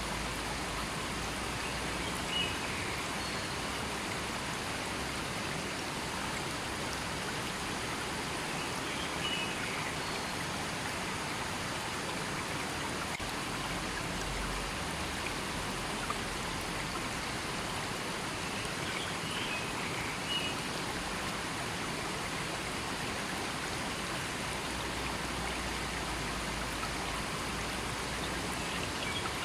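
River water flowing steadily in a continuous rushing wash. A few faint, short high chirps are heard over it at intervals.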